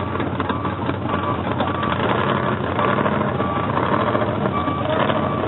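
Large vehicle engine running steadily, with a short high beep repeating about twice a second.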